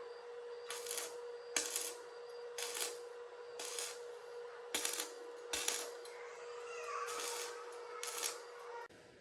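Short, sharp metallic clinks or scrapes from hand work with tools, irregular at about one a second, over a steady faint hum.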